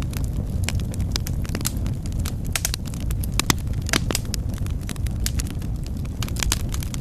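Wood fire burning in a fireplace: a steady low rumble of flames with sharp, irregular crackles and pops, several a second.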